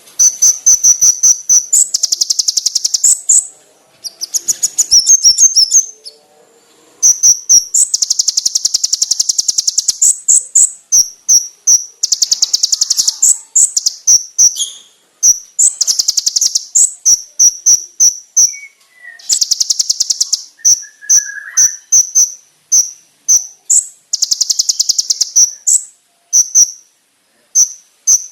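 Konin (kolibri ninja) songbird singing: loud, shrill, very high trills and fast runs of sharp, piercing notes, in phrases of a second or so broken by short pauses.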